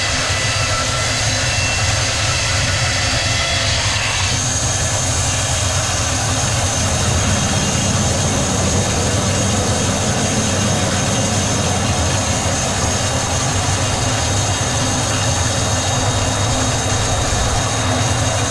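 Heavy sawmill machinery running steadily. About four seconds in, the sound shifts and a high steady whine sets in over the low hum.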